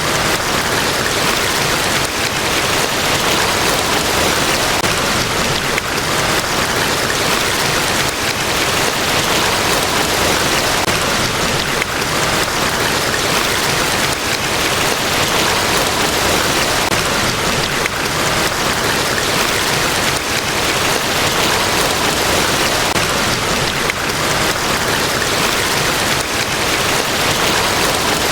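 Large waterfall: a steady, loud rush of falling water, even and unbroken.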